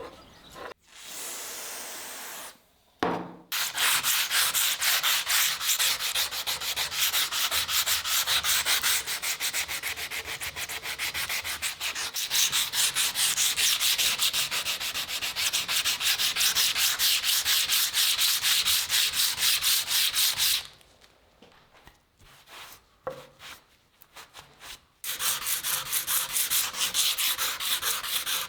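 Hand sanding: fast, even back-and-forth strokes of abrasive rubbing on the workpiece. They stop for a few seconds, with a couple of light knocks, then start again near the end.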